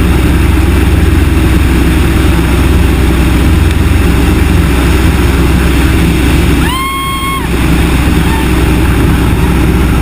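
The Yak-18T's nine-cylinder radial engine running steadily and loudly. A short electronic beep sounds once about seven seconds in.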